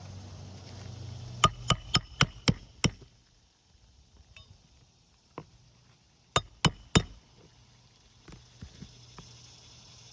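Hammer driving roofing nails into a new asphalt shingle: six quick ringing blows, a pause, then three more.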